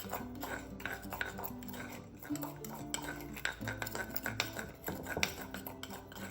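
A spoon stirring a dry spice rub of salt, black pepper, garlic powder and ground pimento, clinking and scraping against the bowl in a quick, uneven run of clicks.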